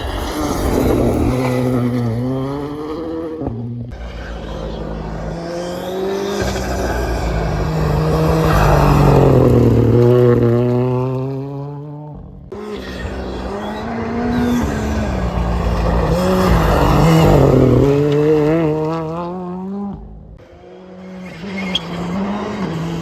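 Rally cars passing at speed one after another, the engines revving up and dropping back through gear changes and braking, with tyre noise. The sound cuts suddenly between cars about four, twelve and twenty seconds in.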